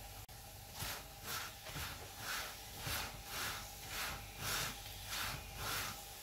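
Paratha frying in oil on a tawa, its sizzle swelling in a steady rhythm about twice a second as it is pressed down again and again with a slotted spatula, starting about a second in.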